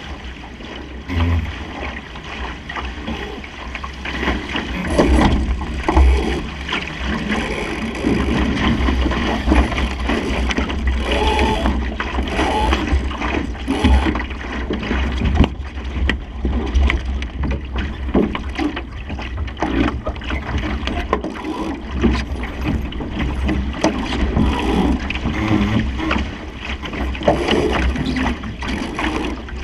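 Water rushing and splashing along the hull of a Supernova sailing dinghy under way in a fresh breeze, with wind buffeting the microphone in a steady low rumble.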